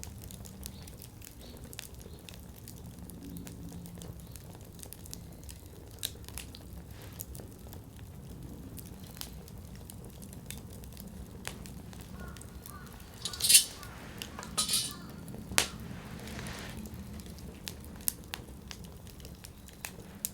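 Wood campfire crackling steadily over a low rumble of flame, with scattered sharp pops and a cluster of much louder pops about two-thirds of the way through.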